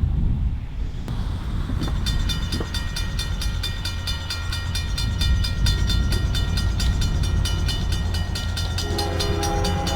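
Approaching CSX freight train: a steady low locomotive rumble, and from about two seconds in a grade-crossing bell ringing about five strikes a second. Near the end the locomotive's air horn starts to sound.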